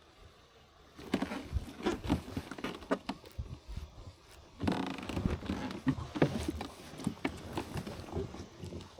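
Irregular knocks, taps and scrapes, starting about a second in, with a denser rustling stretch near the middle.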